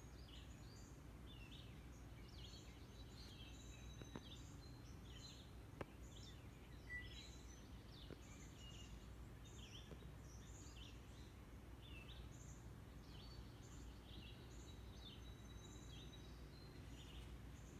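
Faint birdsong from several birds, many short chirps and whistles throughout, over a low steady background hum, with a few faint clicks in the first half.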